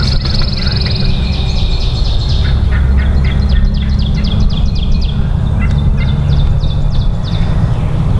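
Wild turkey calling in several runs of rapid, rattling notes, with a high trill in the first second. A heavy low rumble runs underneath.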